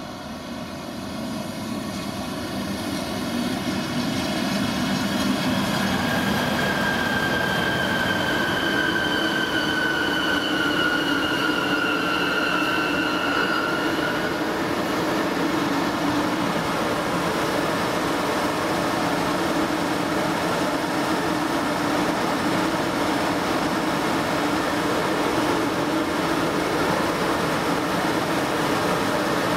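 DB class 114 electric locomotive and double-deck regional coaches running into the station, growing louder over the first few seconds and then a steady rumble of wheels on rail. A high squeal with two slowly falling tones rings out from about six seconds in until about fourteen seconds in.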